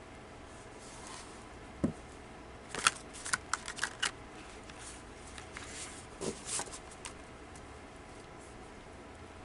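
Tarot cards being shuffled and handled: a soft knock, then a quick run of card slaps and clicks about three seconds in, and a few more soft knocks a little later.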